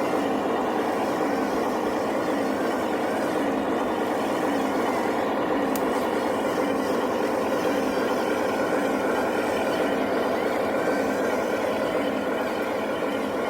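Remote-control 8x8 model truck running steadily, with an even, engine-like drone that hardly changes.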